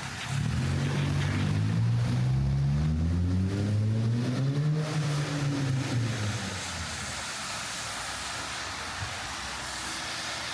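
A motor vehicle's engine passes close by, its pitch rising for about five seconds and then dropping away as it fades by about six seconds in. Through it and after it there is a steady hiss of rain on the street.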